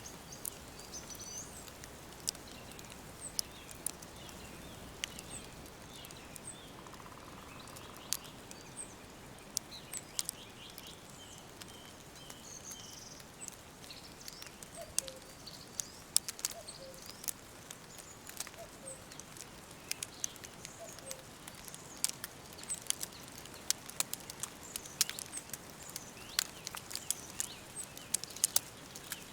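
Woodland ambience: small birds chirping and calling now and then, including a few short repeated call series, over a steady soft hiss. Many scattered sharp crackles run through it.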